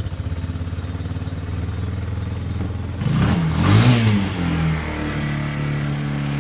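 Cold-started 2002 Yamaha Bear Tracker's 230cc single-cylinder engine running on full choke. It putters steadily, its revs rise and fall once about three to four seconds in, then it settles into a higher, steady fast idle.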